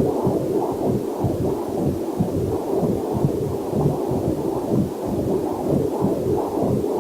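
Heartbeat picked up by a fetal Doppler heart monitor: quick, even whooshing pulses, with a faint waterfall hiss mixed in underneath.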